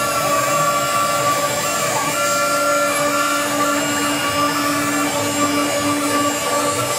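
CNC router carving a relief: the water-cooled spindle runs steadily while the stepper motors drive the ball-screw axes, whining at several fixed pitches that break off and resume with each short move.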